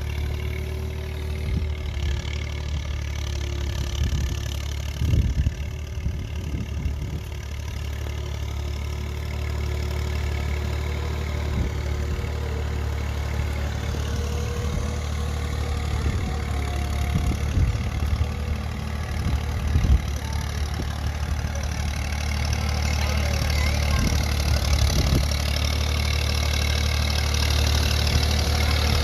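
Massey Ferguson 240 tractor's three-cylinder diesel engine running with a steady low drone and a few brief knocks, getting louder in the last few seconds.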